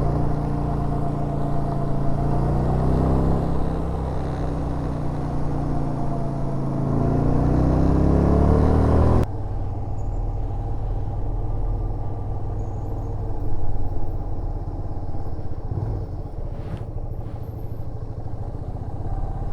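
Yamaha SRV250 V-twin motorcycle engine running on the move: its pitch falls as the bike slows, then rises again as it accelerates. About nine seconds in, the sound switches abruptly to a quieter, steady low engine note.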